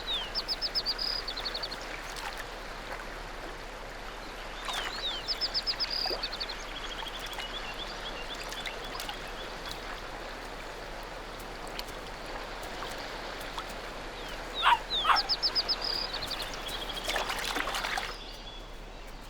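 A songbird singing the same short song three times, each a couple of falling notes then a quick run of high notes, over a faint outdoor background. There is a brief rustling near the end.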